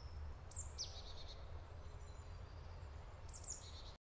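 Small forest birds chirping: short high calls sweeping downward, a couple about half a second in and more near the end, over a faint steady low rumble. The sound cuts off suddenly just before the end.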